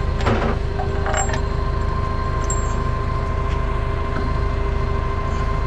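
Heavy-equipment diesel engine idling steadily, with a couple of light metallic clinks in the first second or so as wheel bolts are handled.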